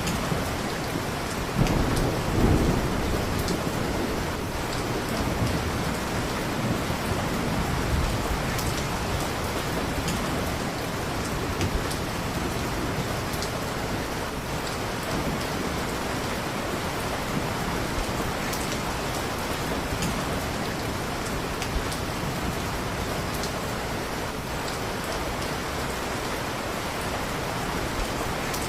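Steady heavy rain with a low rumble of thunder about two seconds in, and scattered sharp crackles from a wood fire.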